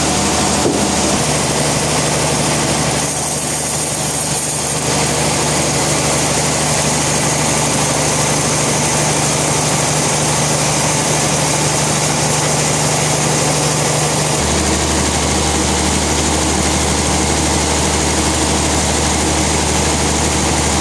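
Sawmill machinery running: a steady engine drone under a dense hiss. About fourteen seconds in, the low hum shifts to a deeper note.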